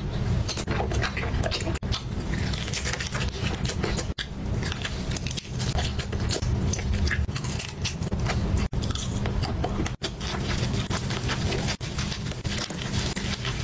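Close-up eating sounds: a person biting and chewing food, with many small wet mouth clicks, over a steady low hum. The sound drops out for an instant a few times.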